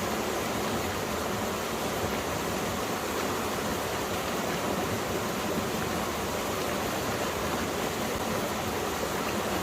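Mountain stream flowing steadily over rocks: a continuous, even rush of water.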